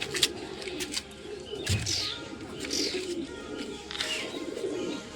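Domestic pigeons cooing, with scattered short clicks and rustles of handling.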